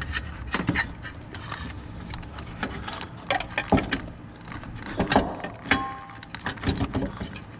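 Hand tools and metal parts clinking and knocking in irregular clanks and rattles during repair work on a truck, with a short squeak about six seconds in.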